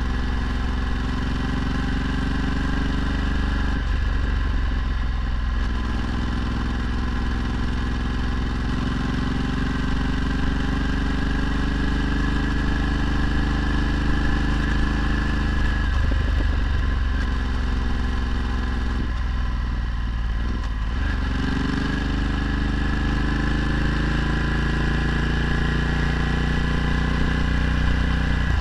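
Ducati Multistrada 1260's V-twin engine with a Termignoni exhaust, running with a steady note that breaks off briefly about four, sixteen and twenty seconds in.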